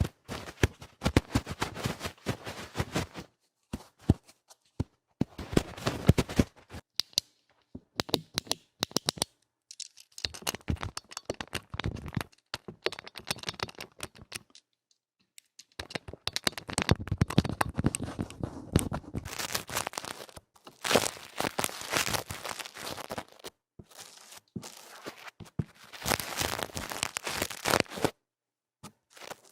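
ASMR ear cleaning: loud, rough scratching and rubbing right on a microphone's ear, in bursts of a few seconds broken by short silences.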